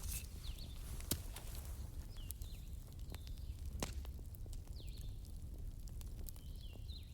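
Bonfire crackling, with irregular sharp pops over a low steady rumble. Short high chirps repeat faintly behind it.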